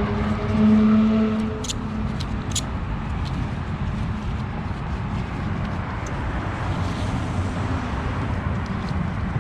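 Low rumble of street traffic, with a steady pitched hum in the first second and a half and a few sharp clicks and knocks.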